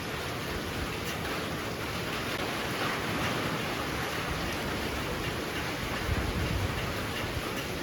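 Heavy rain pouring steadily as a dense, even hiss, with strong wind; a brief low rumble swells about six seconds in.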